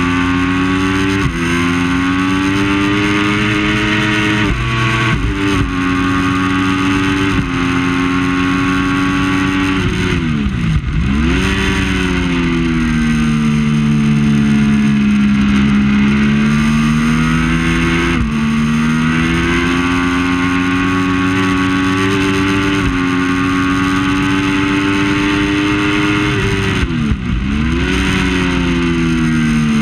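Triumph Daytona 675's three-cylinder engine at race pace, revving up through the gears, its pitch stepping down at each upshift. Twice the revs dip sharply as it brakes and downshifts for a corner, then climb again as it drives out.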